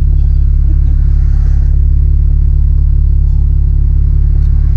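2ZZ-GE-swapped Toyota Corolla driving along at a steady pace, its 1.8-litre four-cylinder engine and the road noise making a steady low rumble with no revving.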